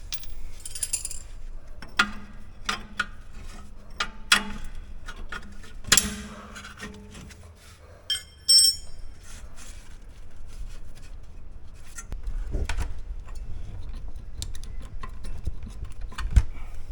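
Metal tools clinking, knocking and scraping on a car's rear disc brake caliper as it is pried upward, with a short bright metallic ring about halfway through.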